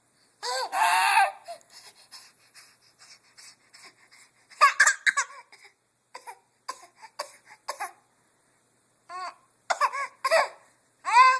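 Six-month-old baby vocalizing: bursts of high-pitched squeals whose pitch bends up and down, with short breathy, clicky mouth sounds between them.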